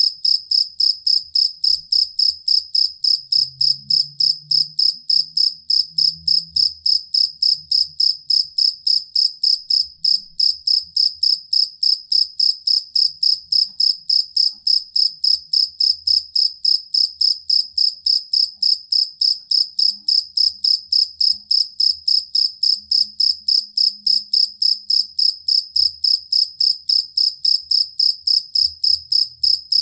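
A field cricket (jangkrik kalung) singing a steady, evenly repeated high-pitched chirp, about three chirps a second without a break.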